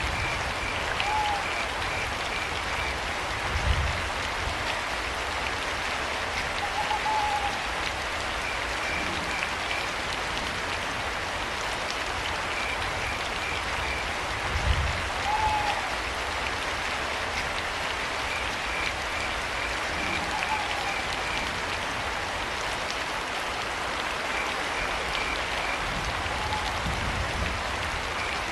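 Steady rain with cricket chirps in short trains of quick pulses, and a hooting owl calling five times with single short hoots spaced several seconds apart. Two brief low thuds come about four and fifteen seconds in.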